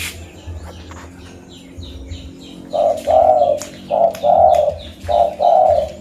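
Zebra dove (perkutut) cooing: low coo notes starting about three seconds in, in three pairs, over a steady run of high chirps from small birds.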